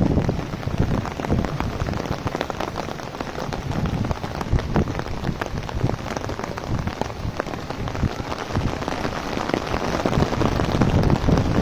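Heavy rain falling on an open umbrella, a dense, steady patter of drops.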